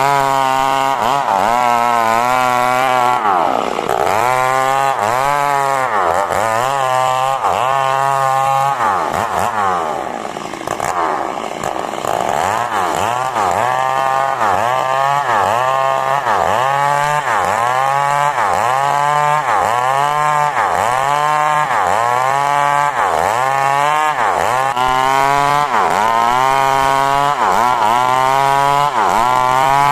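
Two-stroke chainsaw ripping coconut wood into boards. The engine pitch sags and climbs back again and again, about once a second, as the chain bites into the cut. It eases off briefly about ten seconds in.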